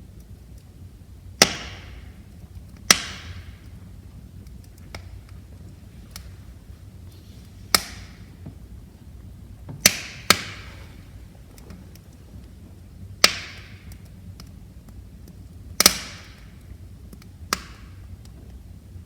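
Wood fire crackling in a fireplace: about eight loud, sharp pops a second or two apart, with fainter ticks between them over a low, steady rushing.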